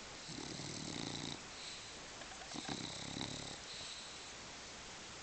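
English bulldog snoring in deep sleep: two snores, each about a second long.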